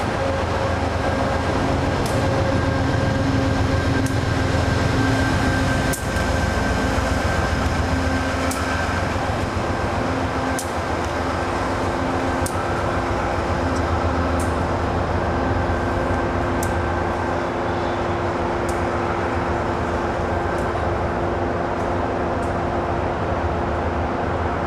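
Passenger trains rolling through a station: a steady rail rumble as coaches pass, joined by the steady engine hum of an Amtrak Genesis diesel locomotive, with sharp clicks every second or two.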